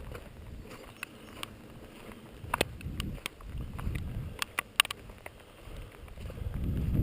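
Walking outdoors in wet weather: scattered sharp ticks and clicks, with low rumbling swells of wind and movement on the microphone that grow louder near the end.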